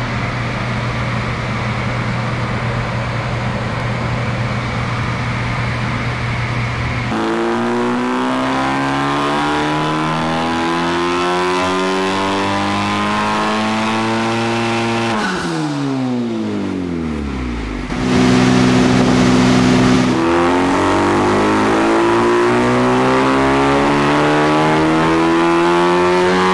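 Honda Civic Type R's turbocharged 2.0-litre four-cylinder, with catless downpipe and AWE Touring exhaust, running on a hub dyno. It holds a steady speed for several seconds, then pulls at full throttle with the revs climbing to about 6,500 rpm. The revs fall away, and near the end the engine climbs again on another pull.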